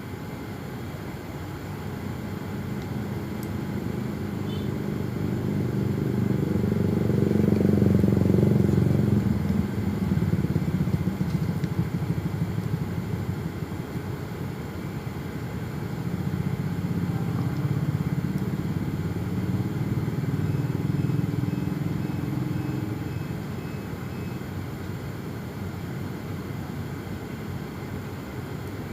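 A passing motor vehicle engine, most likely a motorcycle, swelling to its loudest about eight seconds in and fading. A second, weaker pass follows later.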